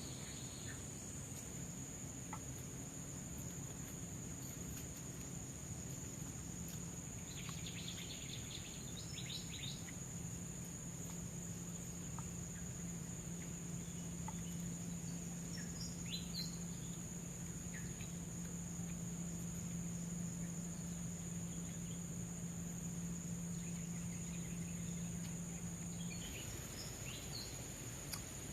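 Tropical forest ambience: a steady high-pitched insect drone with scattered short bird chirps several times. A low steady hum comes in a few seconds in and stops near the end.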